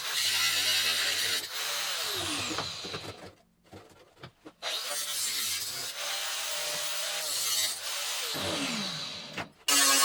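Electric power tool cutting into the steel of a Land Rover front panel. Its motor winds down in falling pitch twice when it is switched off, with a short pause after each.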